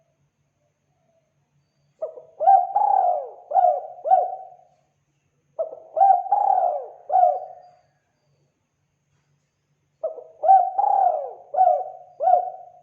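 Spotted dove (tekukur) cooing: three calling phrases a few seconds apart, each a quick run of four or five coos that rise and fall in pitch.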